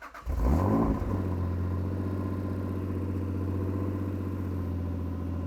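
2005 Acura NSX's mid-mounted V6 starting from cold: the starter cranks briefly, the engine catches with a quick flare of revs in the first second, then settles into a steady cold idle.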